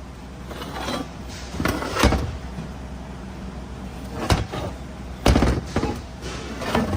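Five or so sharp knocks and clunks of metal parts and tools being handled while the automatic transmission housing is cleaned, the loudest a little past five seconds in, over a steady low hum.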